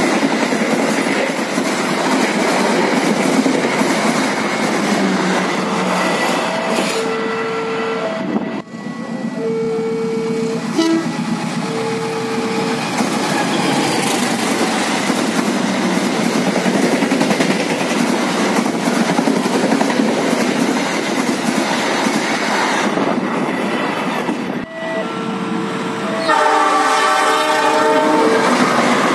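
Express passenger coaches rushing past at speed, a steady rush with wheels clattering over the rail joints, with three short steady horn tones about a third of the way in. Near the end a CC206 diesel-electric locomotive approaches and sounds a long chord horn of several notes at once.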